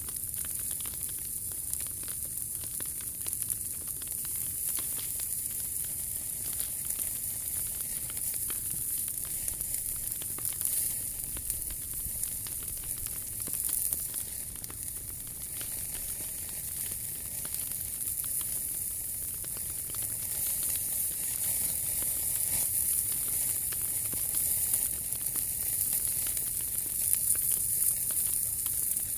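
Wood fire burning in a POMOLY T-Brick Ultra fire box, with a steady high hiss and faint scattered crackles.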